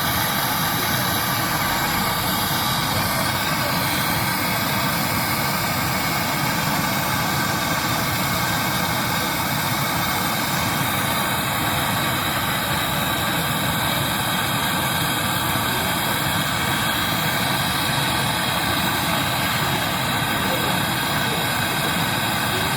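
A machine running steadily at an even level, a constant hum with several steady tones over a wide hiss and no change in speed.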